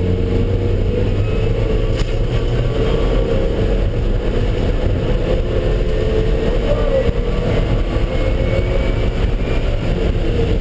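A car engine running hard on a track lap, its pitch drifting slowly up and down, over a steady rumble of road and wind noise.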